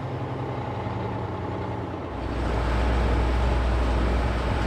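Truck engine and machinery running steadily from inside the cab while the truck rides beside a sugar beet harvester; about two seconds in, a deeper, louder rumble comes in and holds.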